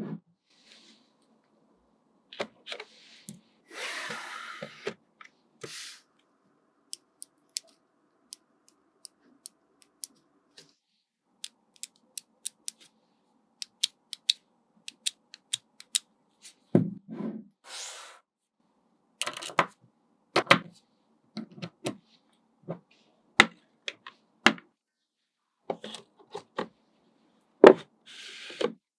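Small magnetic balls clicking sharply as they snap onto one another, irregularly and one or a few at a time, with a few brief bursts of rattling as balls slide and shift against each other.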